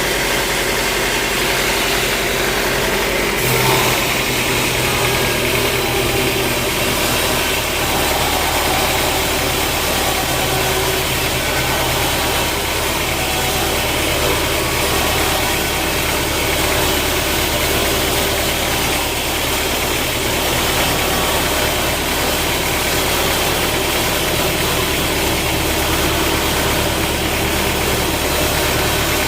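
An engine running steadily, its low hum shifting slightly about three and a half seconds in.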